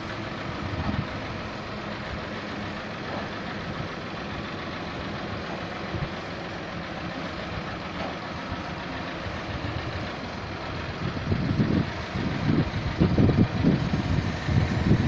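Tractor engine running steadily; about eleven seconds in, a louder, uneven low rumble sets in.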